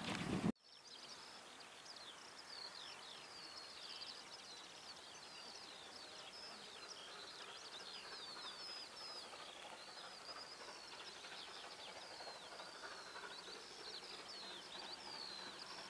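Songbirds singing: many quick, high chirps and short falling whistles over a faint, steady open-air background. An abrupt cut about half a second in ends a louder sound before the birdsong.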